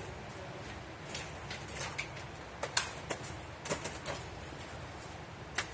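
Scattered sharp cracks of gunfire at a shooting range, about eight or nine short reports at irregular intervals, with no steady rhythm.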